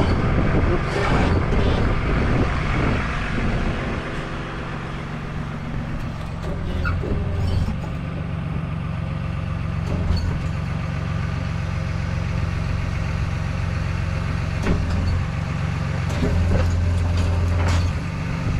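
Tow truck engine running with the PTO-driven hydraulics engaged: a steady low hum that gets louder for a few stretches as the boom and lift controls are worked, with a few metallic knocks.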